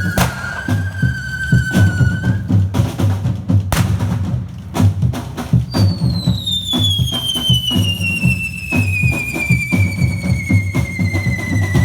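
Tabal drums beating a steady, driving rhythm. A sharp crack comes near the start and another a little before the midpoint. About halfway through, a high whistling tone sets in and glides slowly down in pitch.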